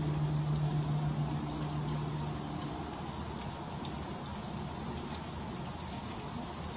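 Freezing rain falling, a steady hiss with scattered fine ticks of drops and ice striking. A low steady hum underneath fades out about two and a half seconds in.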